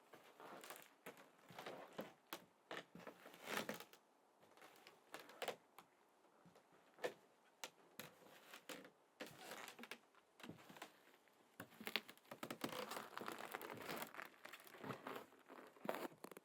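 Footsteps crunching on frozen snow and frost at −18°C: a faint, uneven series of crisp crunches.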